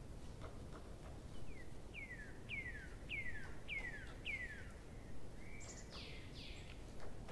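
A bird calling: a run of six evenly spaced falling notes, then a broader, harsher call near the end, over steady low background noise.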